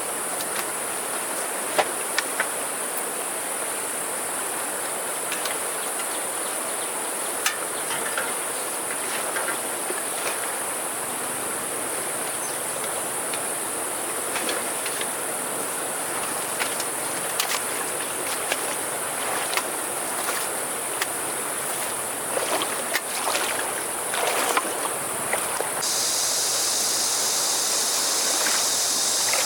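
Insects droning steadily at a high pitch, with scattered clicks and knocks throughout. Near the end the drone gives way to a louder, broader hiss.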